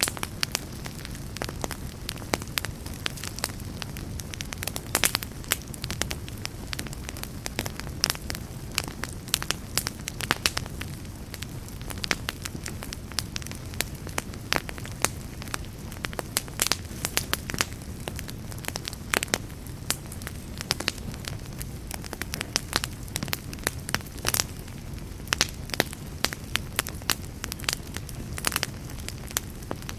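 Wood fire crackling steadily, with frequent irregular sharp pops and snaps over a low, even rumble.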